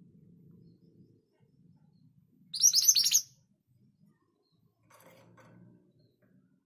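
Scarlet minivet singing one short, quick burst of high, sharp notes about two and a half seconds in, lasting under a second.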